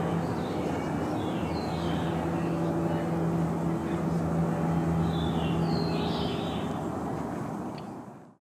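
A steady low mechanical drone with a constant hum, with short bird chirps twice over it; it fades out near the end.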